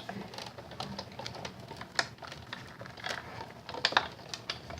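Irregular light clicks and taps of plastic cutting pads and metal Framelits dies being handled and set in place for a Big Shot die-cutting machine, with one sharper click about two seconds in.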